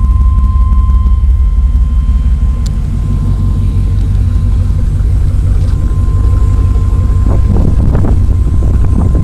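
Six 12-inch Kicker subwoofers in a 1996 Chevy Tahoe pounding out deep, steady bass, loud enough to overload the recording.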